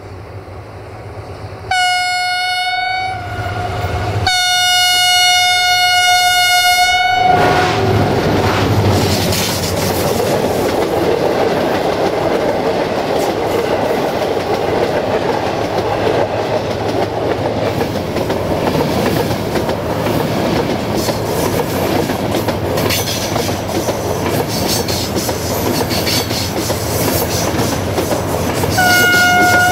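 Locomotive horn sounding a single steady note, a short blast and then a longer one. The train then passes close by, with its wheels clattering over the rail joints through a steady rush of noise. The horn sounds again near the end.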